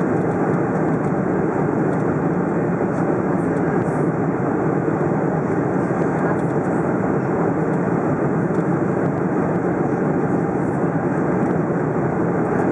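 Steady cabin noise inside a Boeing 747-400 in flight: an even rush of engine and airflow noise with no change in pitch or level.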